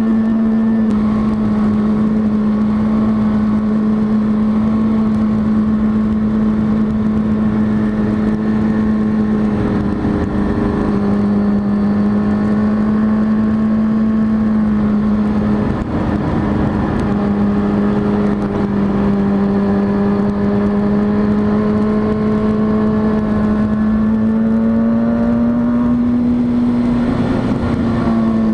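Kawasaki ZX-6R 636 motorcycle's inline-four engine running at a steady cruising speed under a rush of noise. Its pitch dips briefly twice, then climbs a little and falls away near the end.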